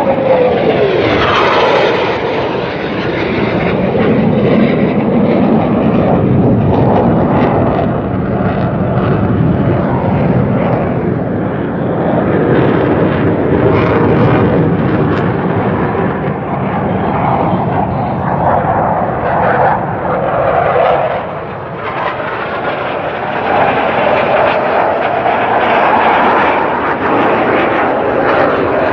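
Blue Angels F/A-18 Hornet jets passing low overhead at an air show: a pitch drop right at the start as one goes by, then continuous loud jet-engine noise, with the engine tone swelling and fading again in the second half.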